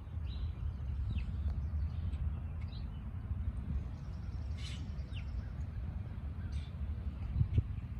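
Small birds giving short, scattered chirps, some sliding down in pitch, over a steady low rumble. A brief dull thump comes near the end.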